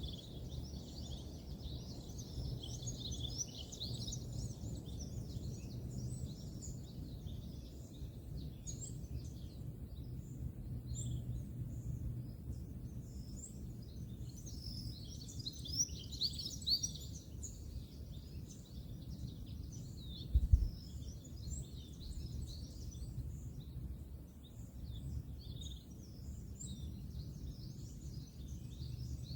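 Many small birds chirping and twittering in a steady chorus over a low hum of distant road traffic. A single low thump comes about two-thirds of the way through.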